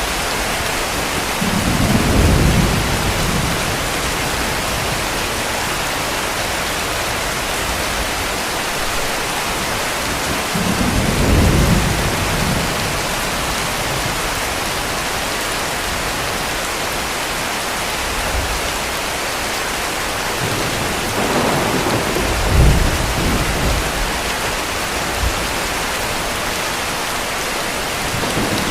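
Heavy rain falling steadily, with three low rolls of distant thunder a few seconds each: one near the start, one about a third of the way in, and one about two-thirds in that ends in a couple of sharper thumps.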